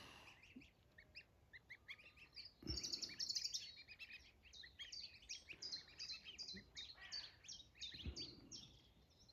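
Newly hatched goslings peeping, a rapid string of short, high chirps, faint and continuous. A brief rush of noise about three seconds in is the loudest moment.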